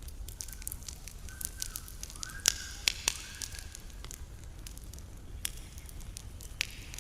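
Wood campfire crackling, with irregular sharp pops over a low steady rumble; the loudest pops come about two and a half and three seconds in. Faint short whistles sound now and then in the first half.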